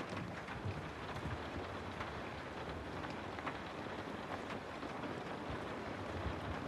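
Steady rain ambience used as white noise: an even hiss of rainfall with scattered small drop ticks.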